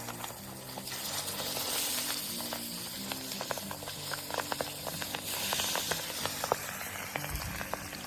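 Fish frying in hot oil over a campfire: a steady sizzle, with sharp crackling pops through the second half. Quiet background music with changing low notes plays underneath.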